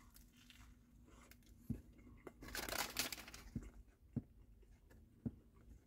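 Faint chewing of a mouthful of hot dog in a crisp toasted bun, with a crunchy stretch about two and a half seconds in and a few soft clicks scattered through.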